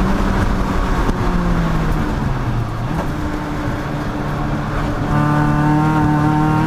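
Race car engine lapping at speed: the note falls away as the car lifts off and slows for a couple of seconds, then the engine comes back on full throttle about five seconds in and pulls steadily.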